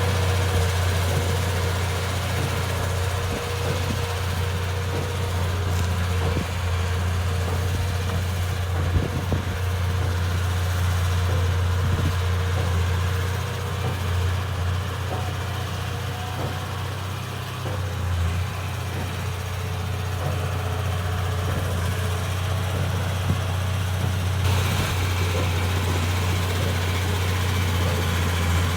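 Bulldozer's diesel engine running steadily at an even speed, with a strong low hum.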